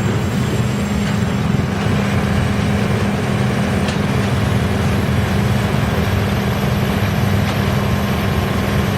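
YGX2113 drum wood chipper running steadily, a constant heavy machine hum with a low rumble underneath.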